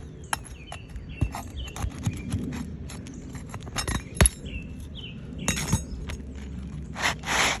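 Irregular sharp clicks and taps of a metal pry tool working nails under asphalt roof shingles, with a short scraping rustle near the end.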